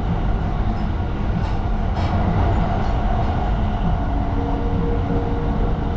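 Running noise of the E261-series Saphir Odoriko electric train at speed, heard from inside the car: a steady low rumble. A faint steady tone comes in about two-thirds of the way through.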